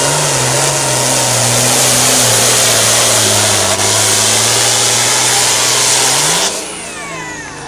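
Pulling tractor's engine at full throttle under load, a loud steady engine noise whose pitch sags slowly as it is dragged down. About six and a half seconds in, the throttle is let off: the noise drops away suddenly, with a brief rise in pitch.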